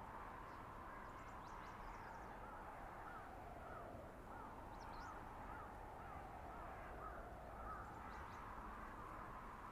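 Blizzard wind in a winter forest: a steady rushing noise with a whistling howl that slowly rises and falls. A faint run of short calls, about two a second, sounds through the middle.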